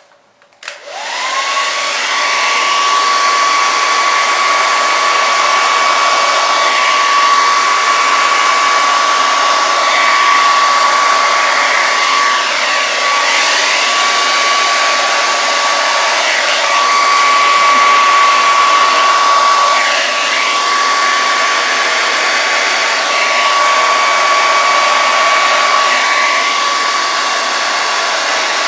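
Handheld hair dryer without a diffuser switching on about a second in: its motor whine rises quickly to a steady high pitch over a loud, even rush of air, and it keeps running steadily.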